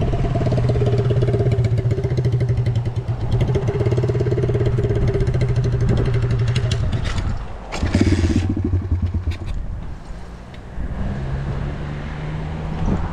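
Small motorcycle with a straight-piped exhaust running at steady revs for about seven seconds. Near the middle the note dips sharply and comes back in a short burst, then it runs quieter, rising slightly in pitch near the end.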